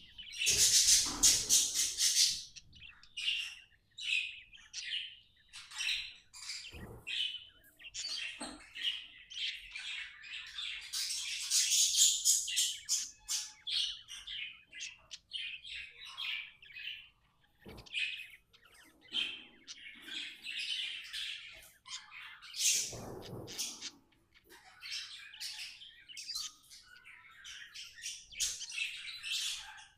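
Budgerigar chirping and warbling in quick, busy runs of high notes, louder in bouts at the start, around the middle and near the end. A few short low thumps break in now and then.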